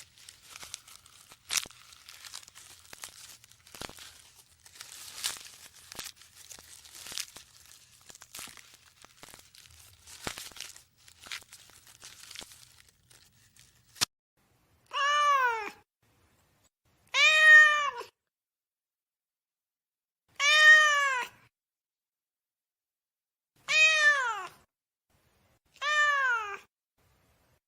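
Crinkling and rustling with scattered clicks for about the first half, then a sharp click. After it a cat meows five times, each a single call that rises and then falls in pitch, a few seconds apart.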